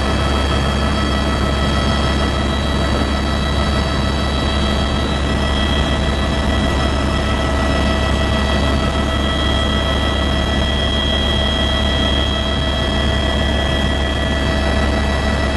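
Helicopter in flight heard from inside the cabin: a steady turbine whine of several high tones over a strong, even low drone.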